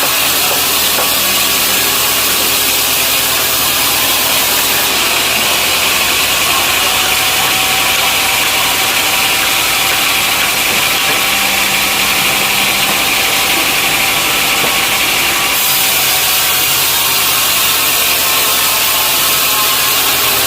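Sawmill saw running with its engine, cutting through a log: a steady engine hum under a loud, hissing saw noise that grows harsher from about five seconds in until about fifteen seconds in.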